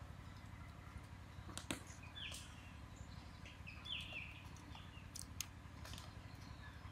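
Faint outdoor ambience with a steady low hum and a few short bird chirps about two and four seconds in, plus several sharp clicks, the loudest a little under two seconds in.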